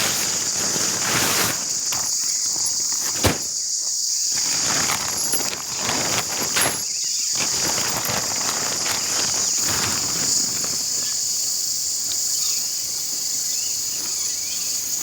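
Steady high-pitched chorus of insects in the bush, with irregular rustling, footsteps and a sharp knock about three seconds in from camp gear being handled.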